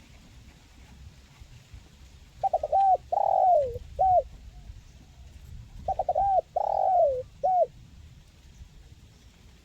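Spotted dove (tekukur) cooing twice. Each phrase is a few quick stuttering notes, a long coo that falls in pitch, and a short final note.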